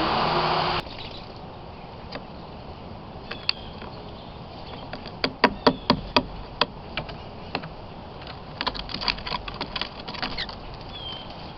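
Small birds at a feeder: a scattered run of sharp pecking taps in two bunches, with a couple of brief high chirps. A loud steady noise cuts off suddenly under a second in.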